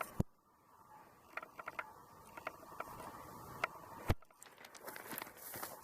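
Scattered light clicks and knocks of handling and footsteps, with one sharper knock about four seconds in.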